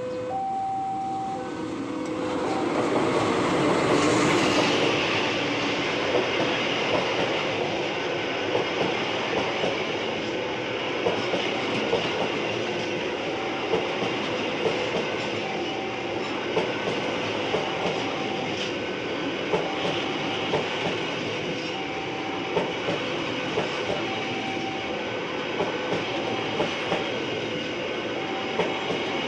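A train passes over a level crossing, starting about two seconds in, with its wheels clacking over the rail joints in frequent sharp beats. Under it a level-crossing warning alarm sounds: a two-tone electronic signal at first, then a tone repeating about once every second or so.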